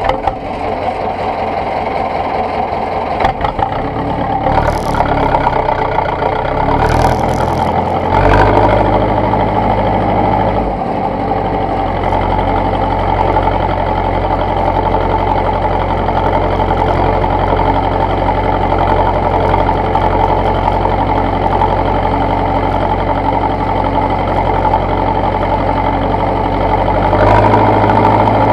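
Zetor tractor's diesel engine running steadily, its low note stepping up about eight seconds in and again near the end. A few short rattles come early on.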